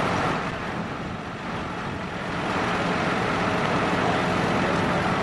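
Steady outdoor rumble of idling emergency-vehicle engines with a faint low hum, easing off briefly about a second in.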